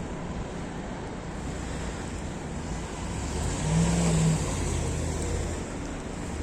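A motor vehicle passes on a snowy city street: its engine rumble swells and peaks about four seconds in, then fades, over a steady hiss of wind and street noise.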